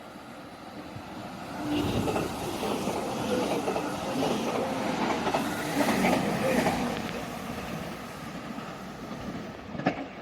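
A train passing through the station: the rail noise builds, stays loud for several seconds, then fades away. A sharp click near the end.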